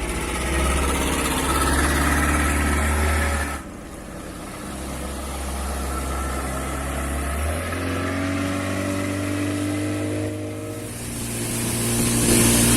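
A speedboat's 40 hp outboard motor running. It eases off a little over a third of the way in, then picks up again and rises in pitch in steps as it is throttled up, with a rushing noise growing louder near the end.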